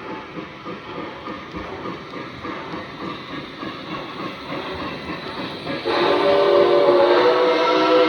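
Model train running along the track with a steady rhythmic rolling noise; about six seconds in, its sound-system whistle comes on, a loud chord of several steady tones, held to the end.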